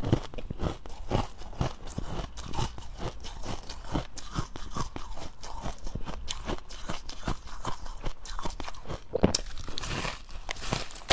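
Dry, powdery freezer-frost ice being bitten and chewed close to the microphone: a run of irregular crisp crunches, a few each second, with one sharper crunch near the end.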